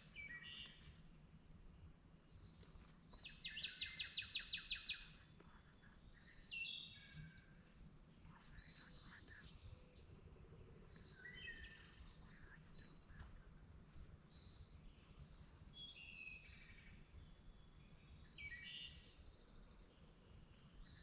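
Small songbirds singing in short phrases again and again, with a fast trill of evenly spaced notes a few seconds in, over faint low background noise.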